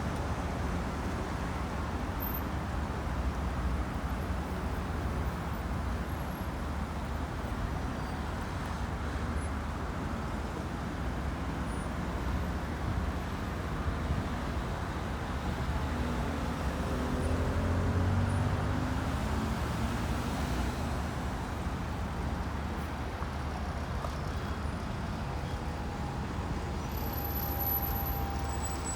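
Road traffic at a busy junction, with buses, cars and trucks making a continuous rumble. One vehicle's engine passes close about two-thirds of the way through, and a thin steady tone comes in near the end.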